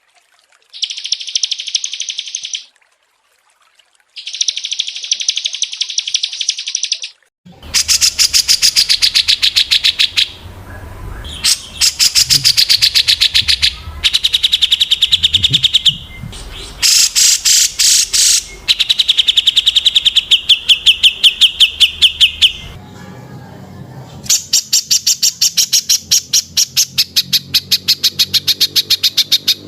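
Small songbirds singing fast, dry trills of rapidly repeated high notes, in bursts of one to three seconds with short pauses between. From about a quarter of the way in, a low background rumble runs under them, and near the end the trill goes on as one long, even run.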